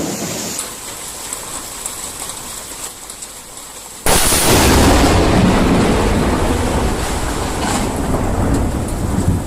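Steady rain, then about four seconds in a sudden, very loud thunderclap from a close lightning strike, rumbling on for several seconds.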